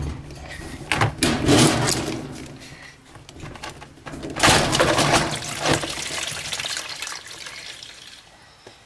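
Water rushing out of a washing machine's drain line in two surges, about a second in and again about four and a half seconds in. The water is left standing in a machine whose error code reports a long drain from a clog.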